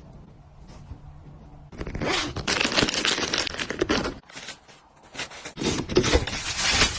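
Packaging being torn and crinkled by hand: two spells of ripping and rustling, the second near the end.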